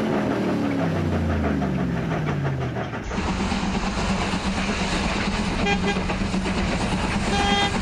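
A car engine sound effect falling in pitch as it runs past, then from about three seconds in a train running steadily, with two short horn toots.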